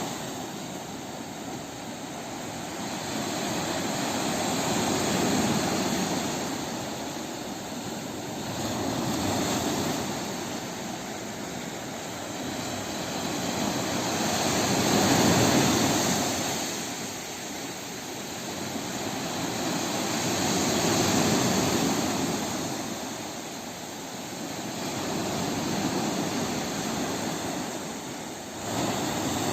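Sea surf: waves breaking and washing in, a steady rushing swell that rises and falls about every five to six seconds.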